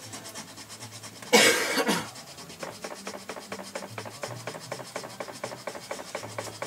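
A single cough about a second and a half in, over faint, fast, even rubbing strokes.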